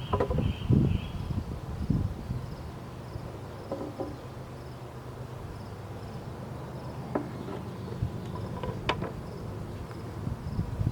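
Honeybee swarm buzzing as a steady low hum. Several knocks and thumps come in the first two seconds, and sharp clicks are scattered through the rest.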